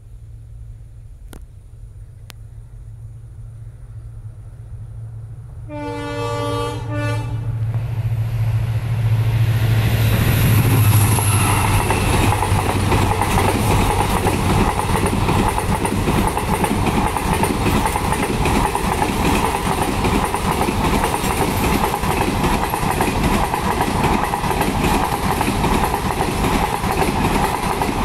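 Indian Railways WDP4B diesel locomotive (EMD 16-cylinder two-stroke engine) approaching and passing a level crossing: its engine rumble grows, it sounds its horn about six seconds in, and it is loudest about ten seconds in as the locomotive goes by. After that the coaches' wheels clatter rhythmically over the rails and crossing, staying loud throughout.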